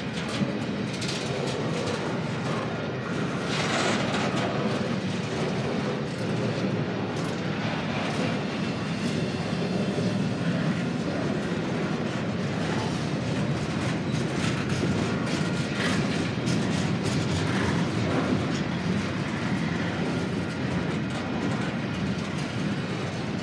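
Union Pacific double-stack container train's cars rolling past: a steady rumble of wheels on rail, with frequent sharp clicks.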